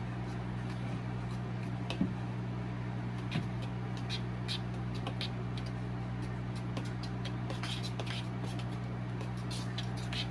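A fork stirring pancake batter in a bowl, tapping and clinking lightly and irregularly against the bowl, more often in the second half, over a steady low hum.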